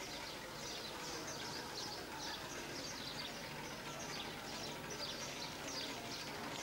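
Small birds chirping: short, high, falling chirps about three a second over a steady outdoor background hum.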